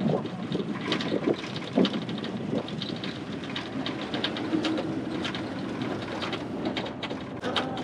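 Ride noise of a 1950s classic car under way: a steady rush of wind and road noise with many small clicks and rattles throughout.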